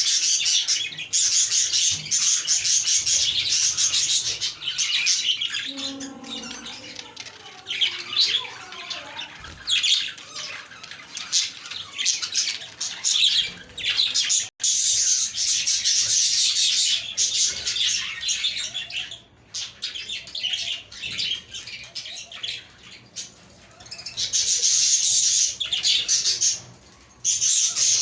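A flock of budgerigars chirping and warbling, a dense, fast twittering chatter that swells and fades in waves, loudest at the start, about halfway through and near the end.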